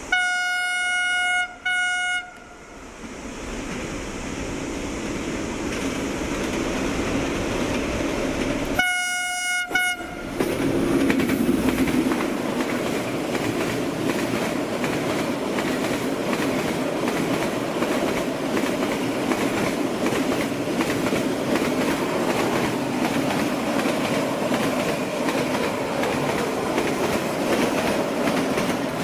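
Train horn sounding a long blast and a short one, then a third blast about nine seconds in. The train's rumble and clatter of wheels on rail joints grows louder and runs steadily.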